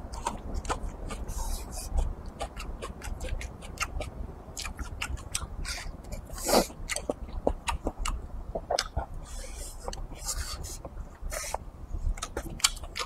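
Close-miked eating: wet chewing and lip-smacking on a mouthful of braised pork trotters and spicy stir-fried dried tofu, an irregular run of sticky clicks and smacks, with one louder smack about six and a half seconds in.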